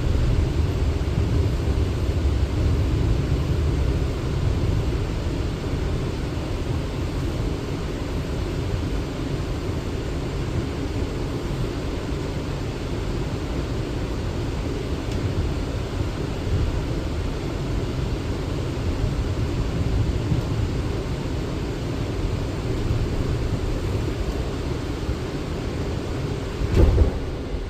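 Steady rumble and hiss inside an R179 subway car, with a short thump about a second before the end.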